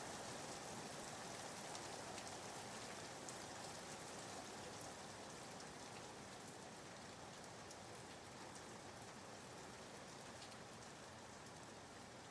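Soft, steady rain sounds, an even hiss of rainfall with scattered light drop ticks, laid in as background white noise. Faint, and easing slightly over the stretch.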